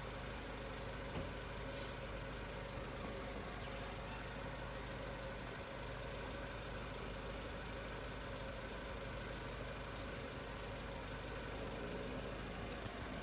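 A steady, even engine hum with no change in pitch.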